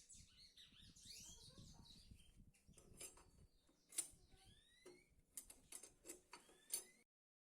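Faint bird chirps, with several light sharp clicks or taps in the second half; the sound cuts out suddenly near the end.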